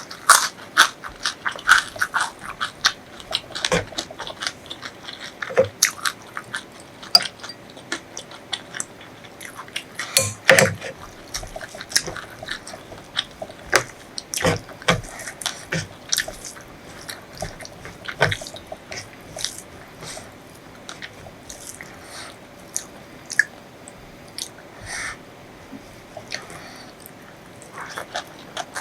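A person chewing and crunching food close to the microphone. A quick run of crisp crunches comes at the start, then chewing with louder bites now and then, growing sparser toward the end.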